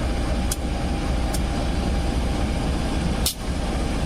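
Steady low rumble of a passenger train running along the track, with a few faint sharp clicks at uneven intervals and a louder one about three seconds in.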